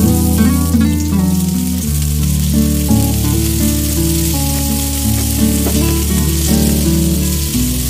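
Onion, garlic and wood ear mushrooms sizzling in hot oil in a frying pan as they are stirred with a spatula, a steady frying hiss. Background music with held chords and a bass line runs under it.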